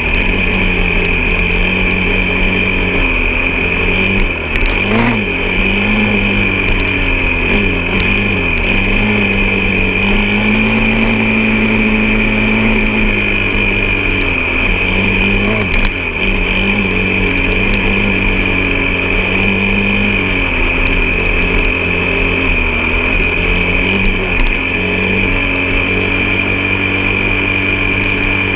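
Off-road vehicle engine running, its revs rising and falling unevenly, with a steady high-pitched whine over it and a few brief knocks.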